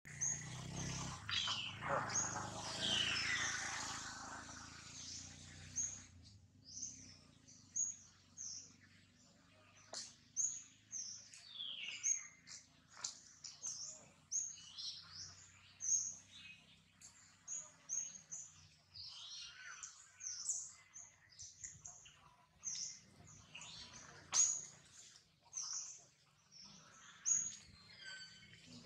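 Birds chirping: short, high notes repeated throughout, with a few longer calls falling in pitch. The first few seconds are louder, with sweeping calls over a low hum.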